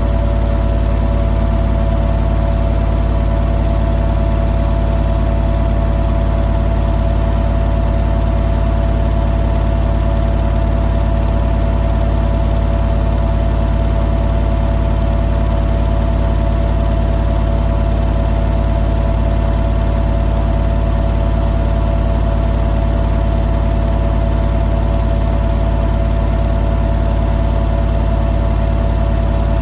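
Hoover New Wave Plus 5 WA1300 washing machine spinning steadily during its final spin, a cycle rated at 1300 rpm: a constant low hum with a steady motor whine and drum vibration.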